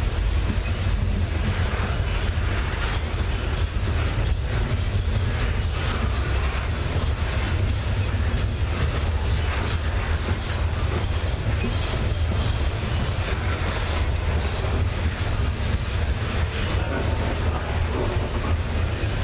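Freight train on the move: a steady low diesel rumble with the clatter of wheels and cars over the rails.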